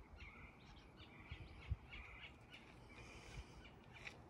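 Faint bird chirps, short calls repeated over and over, over quiet outdoor background noise, with one soft low bump a little under two seconds in.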